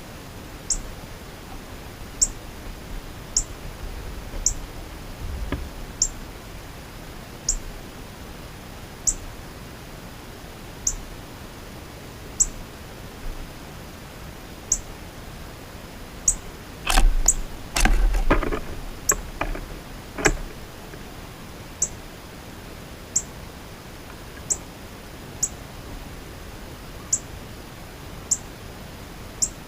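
A bird gives a sharp, high chip note over and over, about one every one to two seconds. About two-thirds of the way through, a few seconds of knocking and clattering stand out above it.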